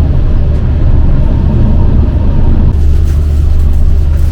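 Loud, steady low rumble of a passenger train running along the track, heard from inside the carriage. From a little past halfway in, faint clicks and rattles join it.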